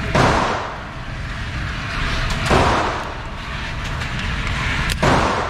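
Three pistol shots, evenly spaced about two and a half seconds apart, each with a short fading echo, over a steady low rumble.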